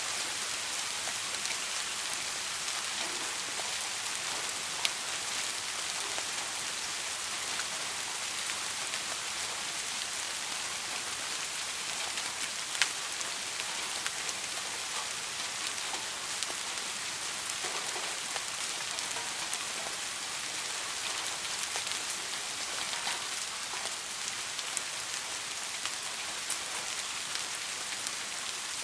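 Steady soft rain falling, an even hiss full of small drop ticks, with two sharper single drop hits about five and thirteen seconds in. No thunder.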